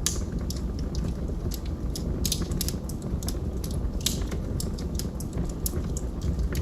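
Log fire crackling: a steady low rumble of flames with sharp, irregular pops and snaps of burning wood, a louder pop at the start and another about four seconds in.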